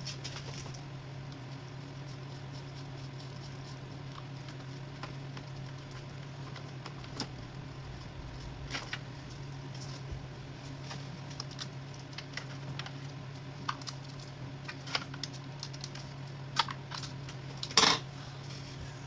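Scattered light metallic clicks and clinks of hand tools being handled, with a sharper click near the end, over a steady low hum.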